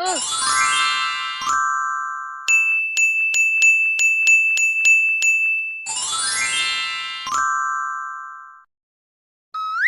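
Electronic intro jingle of chime-like tones: a rising sweep, then a held high bell tone struck evenly about two and a half times a second, a second rising sweep, and short upward glides near the end.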